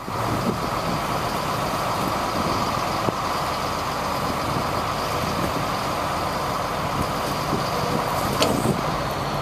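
A GMC digger truck running steadily, with a single sharp click about eight seconds in.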